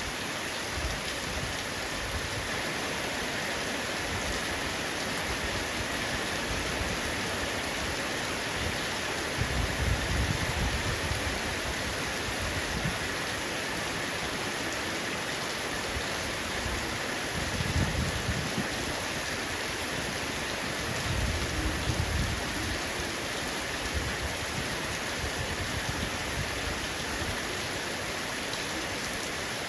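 Heavy rain falling steadily on a roof, an even dense hiss, with three short low rumbles about ten, eighteen and twenty-two seconds in.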